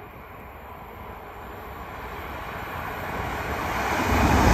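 Double-deck Intercity electric train approaching at speed: a rushing noise of wheels and air that grows steadily louder, with a low rumble coming in near the end as the train reaches the listener.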